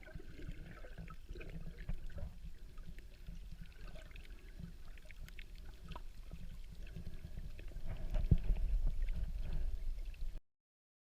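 Underwater ambience picked up by a snorkeler's camera: a low rumble of moving water with scattered faint clicks and crackles. It grows louder about eight seconds in, then cuts off suddenly near the end.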